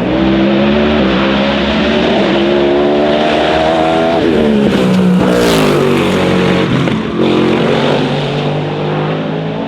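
Race car engine at full throttle, its revs climbing for about four seconds, then dropping sharply and building up again, with another dip near the end.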